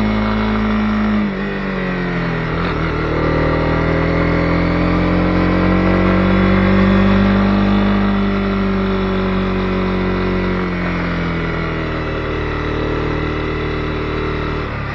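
Honda CB250R's single-cylinder engine running under way. Its note dips sharply about a second in and again a second later, then rises and falls slowly, and drops once more near the end.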